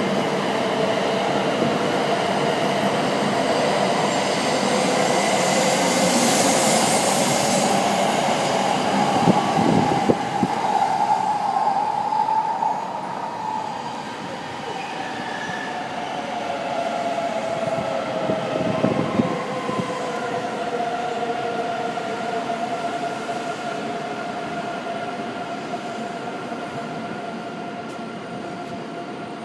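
Shinkansen bullet trains running through the station, their electric drive giving a pitched whine that rises over the first dozen seconds and then falls away, while another steady whine carries on to the end. A short burst of wheel clatter comes about nine seconds in and again about nineteen seconds in.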